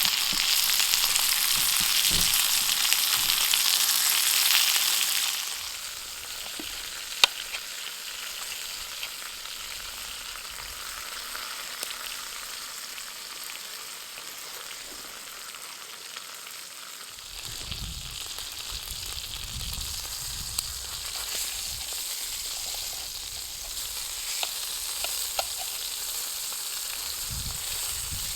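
Beef steak sizzling over a wood fire, a steady hiss that is louder for the first five seconds or so and then drops to a quieter sizzle, with a few sharp pops.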